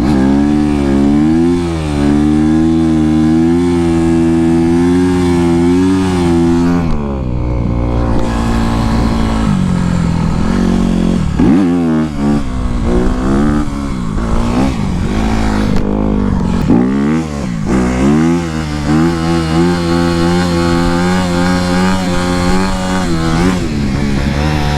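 Honda CRF250R dirt bike's single-cylinder four-stroke engine ridden hard. It holds high revs, drops briefly when the throttle is closed about seven seconds in, then climbs and falls several times through the middle before settling back to steady high revs near the end.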